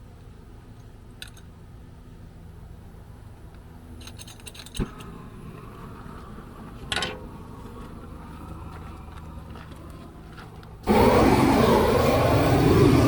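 Quiet stretch with a knock and a short scrape, then, near the end, a blow torch suddenly starts with a loud steady rushing roar.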